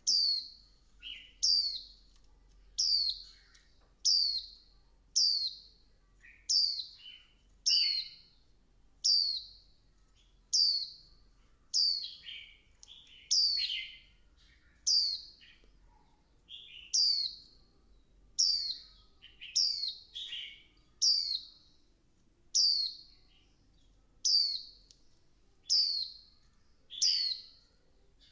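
Female white-eye calling: short, high chirps that fall in pitch, repeated about once every second and a half, some followed by a lower note. The female's calls are used to excite male white-eyes into song.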